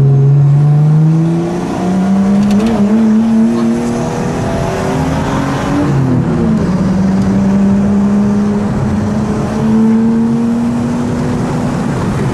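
Straight-piped Nissan RB25DET turbocharged straight-six, heard from inside the cabin, accelerating hard. The exhaust note climbs in pitch over the first two seconds and stays high, drops suddenly about six seconds in as at a gear change, then climbs slowly again and levels off.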